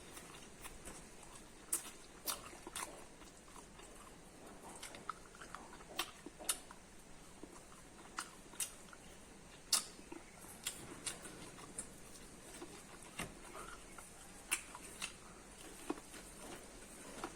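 A person biting and chewing corn (maize) close to the microphone: irregular sharp crunches and moist clicks, a few every second.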